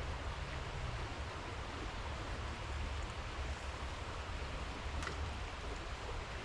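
Steady rushing outdoor background noise with a deep low rumble, and one light click about five seconds in.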